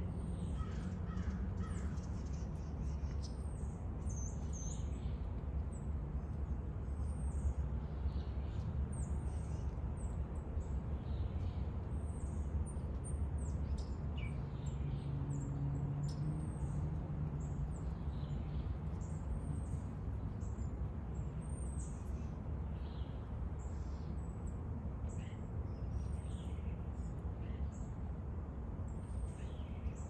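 Wild backyard birds calling: many short, high chirps and downward-slurred notes come one after another, over a steady low rumble.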